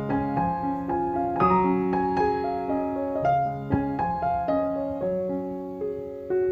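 Soft piano background music: single notes and chords struck every half second or so, each one ringing on.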